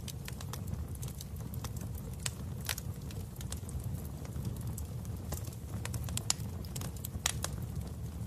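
Fireplace fire burning: a steady low rumble of flames with irregular sharp wood crackles and pops.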